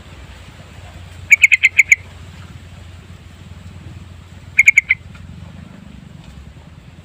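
Yellow-vented bulbul calling: a quick run of about six loud notes, then a shorter run of three or four about three seconds later.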